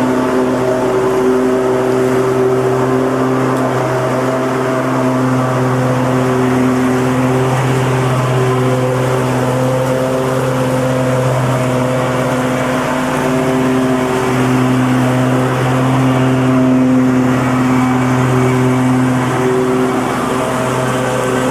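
Lawnmower engine running steadily at constant speed, a low hum with a little wavering in its higher tones.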